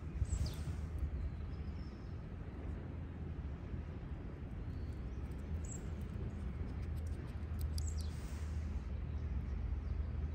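Outdoor ambience of a few birds chirping, short high falling notes near the start and twice later on, over a steady low rumble.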